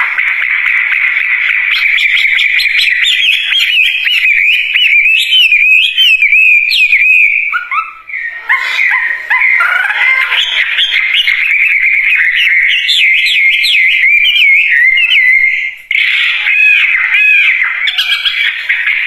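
Wambie songbird singing loudly and almost without pause, a fast warbling run of chirps and rising whistled notes, breaking off briefly twice. It is in full, vigorous song.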